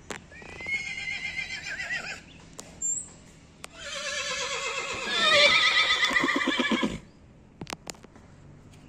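A horse whinnying twice: a shorter quavering call, then a longer, louder one starting about three and a half seconds in that drops in pitch and ends in low, pulsing nickers.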